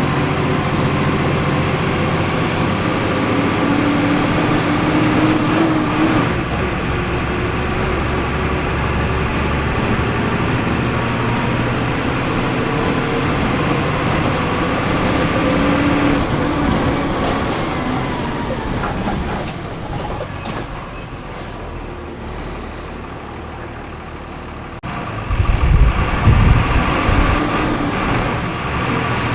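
Mercedes-Benz 17.230 EOD city bus diesel engine running under way, heard from inside the bus. Its pitch climbs and then drops back twice as the bus pulls ahead. The engine quietens for a few seconds past the middle. After an abrupt cut near the end it comes back louder, with a heavy low rumble.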